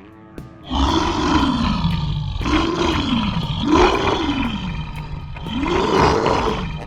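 A loud, deep monster roar that rises and falls in pitch about four times in a row.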